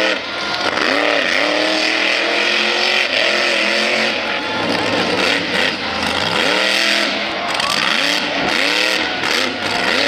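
Monster truck engine revved hard over and over, its pitch swooping up and falling back many times in quick succession, with a steady wash of noise beneath.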